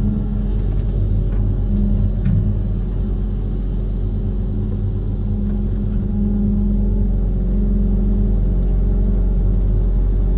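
Diesel engine of a Kobelco SK130 amphibious excavator running steadily under work with a low, even hum, with a few faint clicks and knocks.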